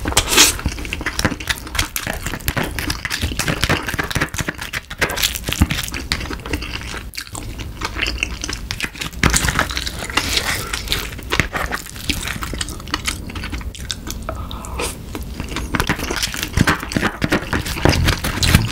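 Close-miked wet chewing and mouth smacks of a person eating snow crab meat mixed with rice, with a wooden spoon scooping and scraping inside the crab's shell. Many small sharp clicks and smacks follow one another throughout.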